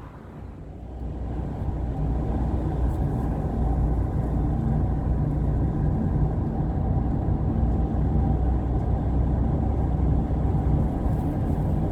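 Car driving: a steady low engine and road rumble that builds over the first second or two and then holds.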